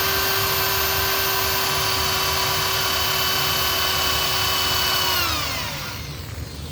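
Electric hand drill running at a steady speed, drilling a hole into a small-block Chevy 350 engine block's lifter valley for the lifter tray hold-down bolt. About five seconds in, the trigger is released and the motor winds down, its pitch falling.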